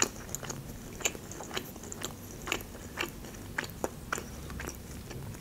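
A person chewing food with the mouth closed: soft, irregular mouth clicks, roughly two or three a second.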